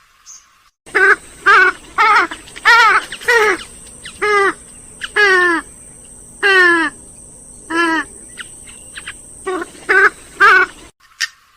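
Grey-headed swamphen calling: a series of about a dozen loud calls over some ten seconds, several of them sliding down in pitch.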